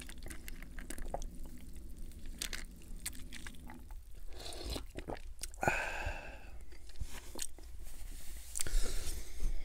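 Close-miked chewing with crunchy mouth clicks from a mouthful of hard-shell taco and fried chicken skin, with a drink sipped and swallowed from a cup around the middle.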